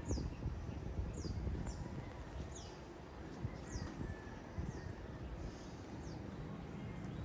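A bird repeats a short, high, thin call that falls in pitch, about once a second. Under it runs a steady low rumble of outdoor background noise.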